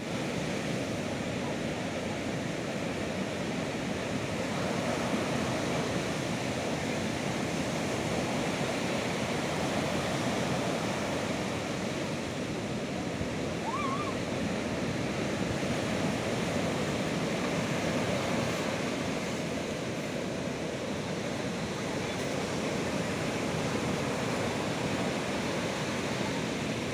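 Sea surf washing in a steady rush, swelling and easing gently in level.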